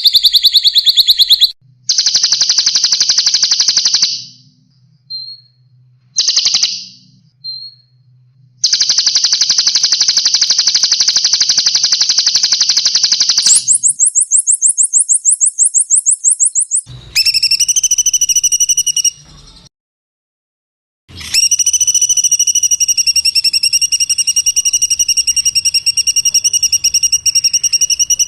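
Songbird calls played one clip after another with short silent gaps: fast rattling trills of rapidly repeated notes, then a higher, quicker trill, then long steady whistled notes, the last held for about seven seconds.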